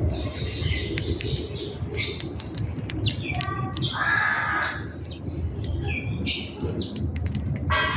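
Several birds chirping and calling over one another in short high notes, with a longer, lower, harsher call about four seconds in, over a steady low rumble.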